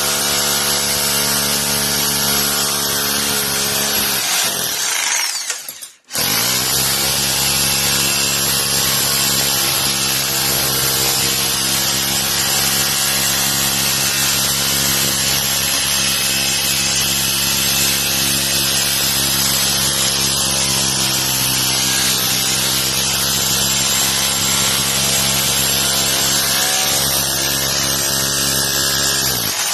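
Bauer 1 in. SDS Plus rotary hammer running in hammer mode with a chisel bit driven into a mortar joint of a concrete block wall, breaking the stuck joint loose. It runs steadily, stops for about a second and a half about four seconds in, then starts again and runs on until it cuts off at the end.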